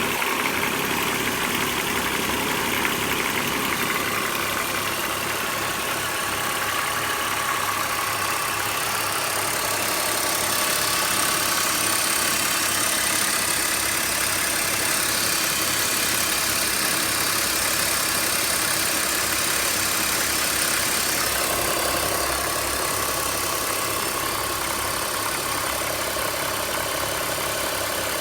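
BMW M54B22 2.2-litre straight-six engine idling steadily. It runs evenly, without the strange noise, after its spark plugs were refitted and tightened past the specified torque.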